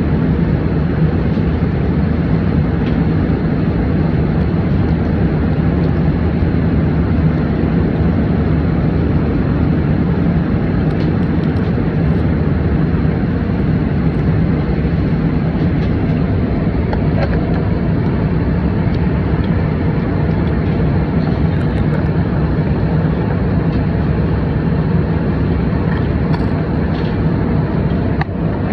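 Steady low cabin noise of an airliner in flight: engine and airflow noise with a constant hum, and a few faint clicks.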